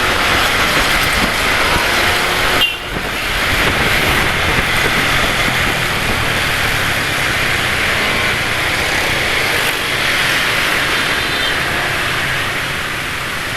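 Road traffic heard while riding: a steady rush of wind and road noise with vehicle engines mixed in, dipping briefly about three seconds in.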